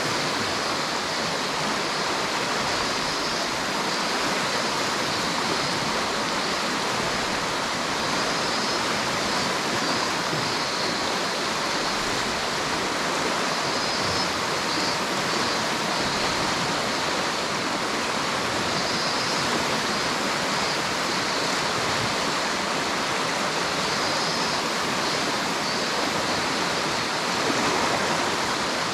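River water rushing over rocks in a steady, even rush.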